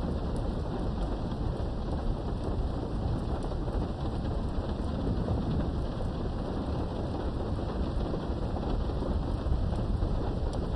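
Thunderstorm: steady heavy rain with a continuous low rumble of thunder underneath and occasional sharp drop ticks.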